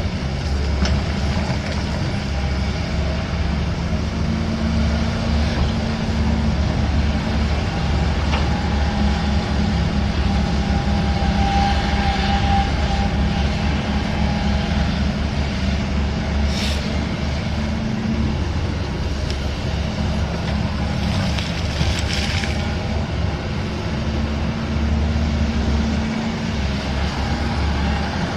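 Heavy diesel engine of construction machinery running steadily with a low throbbing rumble. A few brief higher-pitched scraping or squealing noises come through about halfway and again about two-thirds of the way in.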